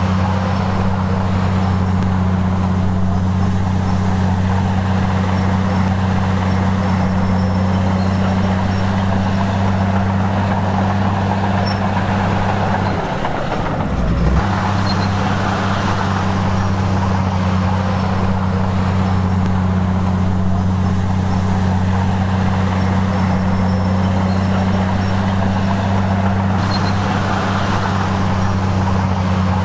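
The diesel engine of a Komatsu bulldozer running steadily with a deep drone. Just under halfway through, its note drops briefly with a low thud, then steadies again.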